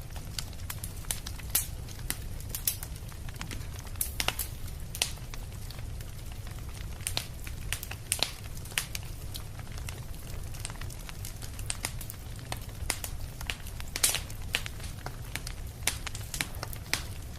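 Fire crackling: irregular sharp pops and snaps over a steady low rumble, with one louder pop late on.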